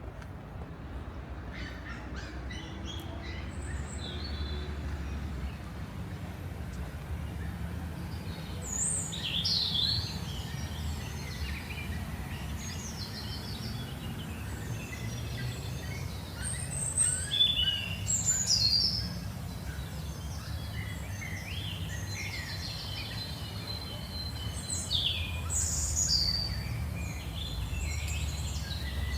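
Small birds chirping and twittering in short, irregular calls, busier from about eight seconds in, over a steady low background rumble.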